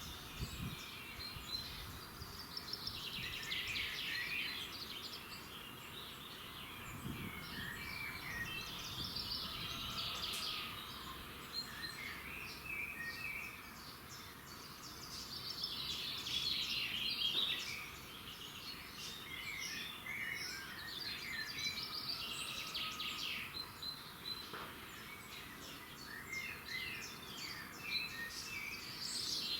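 Dawn chorus of several songbirds singing at once, with overlapping chirps and trills, over a steady outdoor background hiss.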